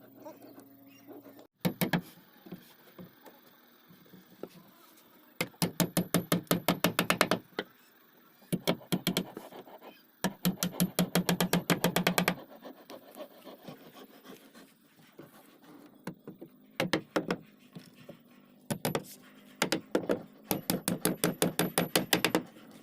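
Hammer tapping on wood in fast runs of sharp knocks, about eight a second, each run lasting one to two seconds with short pauses between.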